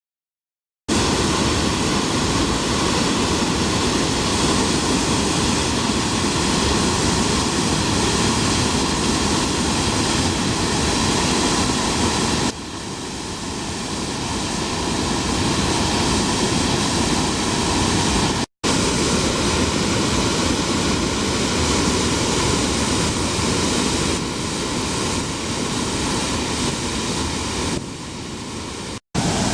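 Floodwater pouring out of Hōnen-ike's stone multiple-arch dam in a loud, steady rush: a release made because a typhoon is approaching. It starts about a second in and goes briefly quieter about halfway, with two short gaps where the footage is cut.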